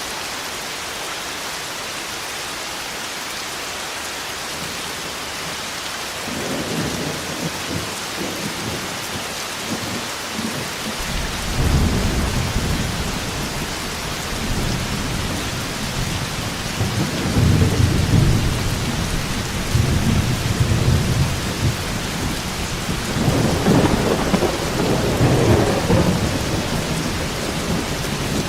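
Thunderstorm: steady heavy rain with rolling thunder. The thunder starts about six seconds in and rumbles on in several long swells.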